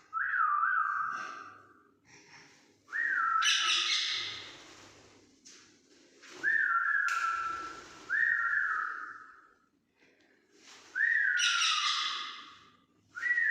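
Whistling, six times, a few seconds apart: each whistle slides up, then settles into a held note. Rougher, higher-reaching sounds come alongside several of the whistles.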